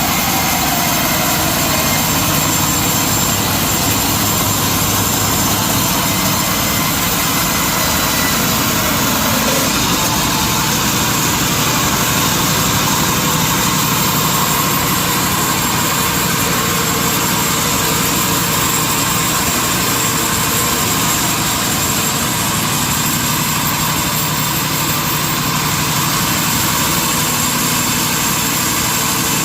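Industrial sawmill machinery running steadily: a loud, even mechanical noise with a low hum, unchanging throughout.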